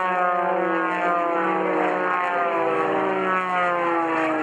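Propeller airplane flying past, its engine note sliding steadily down in pitch as it goes by.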